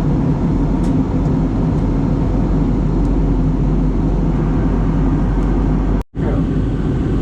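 Steady airliner cabin drone of engine and airflow noise during descent, with a low hum under it. The sound cuts out for a split second about six seconds in.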